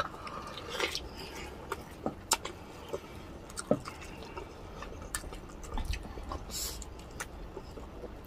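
Two people chewing braised pork humba and rice eaten by hand, with irregular wet mouth smacks and clicks.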